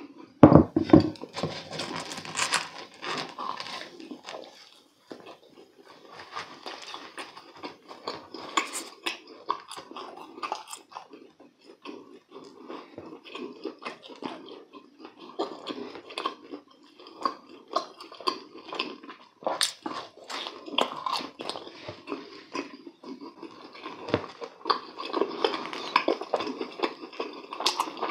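Close-miked chewing and biting of crisp deep-fried food, irregular crunches and wet mouth clicks, with a loud bite about a second in.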